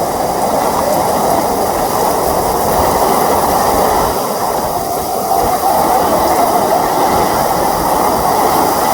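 Heavy rain pouring down in a loud, steady rush.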